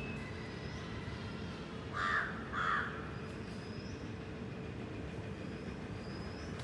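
A crow cawing twice about two seconds in, each caw short and harsh. Faint high chirps from small birds come and go over a steady low rumble.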